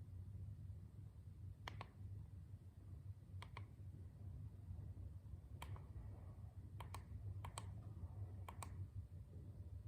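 About seven small, sharp clicks at irregular intervals, a couple of them in quick pairs, over a faint steady low hum.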